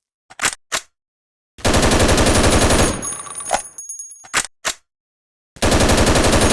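M16 rifle sound effect built from processed recordings of an airsoft M4: two bursts of rapid automatic fire, about ten shots a second for a second and a half each, the second starting near the end. Each burst trails off into a fading tail followed by two sharp clicks, with dead silence between.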